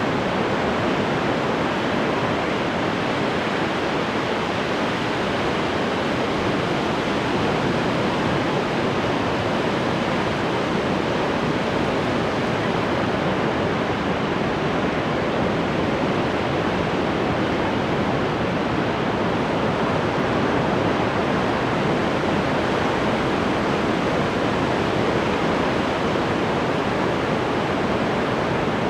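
Ocean surf: a steady wash of breaking waves that holds an even level, with no single wave standing out.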